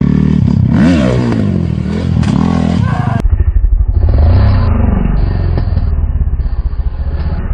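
Off-road motorcycle engines revving, the pitch rising and falling. About three seconds in the sound changes abruptly to a lower, pulsing engine note.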